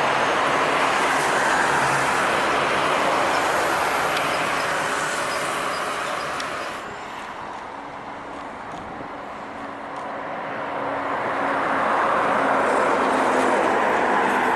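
Trucks passing on a highway: one goes by loud with tyre and engine noise that fades away about halfway through, then another approaches with a steady engine note and passes near the end.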